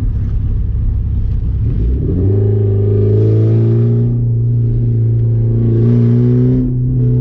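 1989 Porsche 944's 2.7-litre four-cylinder engine running through a straight-piped exhaust while the car is driven. The engine note climbs about two seconds in and then pulls steadily under acceleration, dipping briefly near the end as the throttle comes off.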